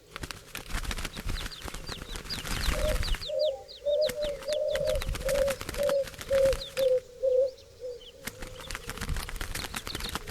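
Doves cooing in a run of about a dozen short low notes, with wings flapping and clattering throughout. Thin, quickly falling high chirps of small birds come and go.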